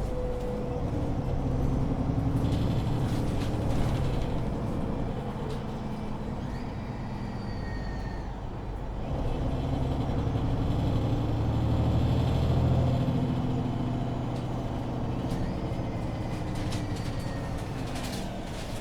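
Engine and Voith automatic drivetrain of a MAN Lion's City 19C EfficientHybrid bus, heard from on board while driving, swelling in loudness twice as it accelerates, with faint whines gliding up and down higher in pitch.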